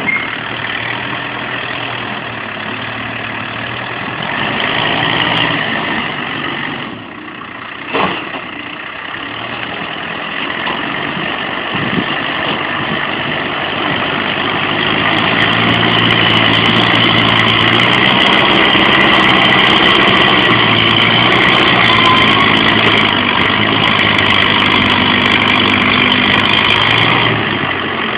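An engine running steadily, growing louder about halfway through, with a single knock about eight seconds in.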